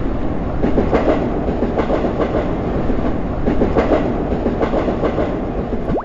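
Subway train running along the track: a steady rumble with the clickety-clack of wheels over the rails.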